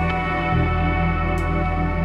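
Live alternative/post-rock band playing: effects-laden electric guitar with echo rings out in sustained chords over steady low bass notes.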